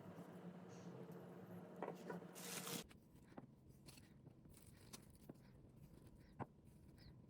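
Near silence: a faint steady hum that stops a little under three seconds in, just after a brief rustle, then a few faint scattered clicks.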